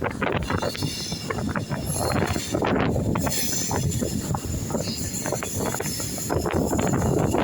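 Train running, a steady rumble with frequent short clatters, and wind buffeting the microphone.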